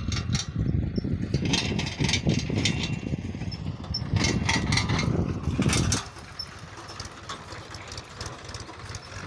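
Mahindra tractor's diesel engine running close by, loud with a rattling clatter, then dropping to a quieter steady run about six seconds in.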